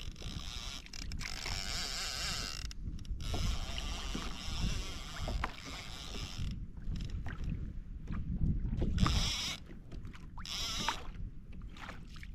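Water sloshing and splashing around a fishing kayak, with a steady low buffeting of wind on the microphone and a few light clicks.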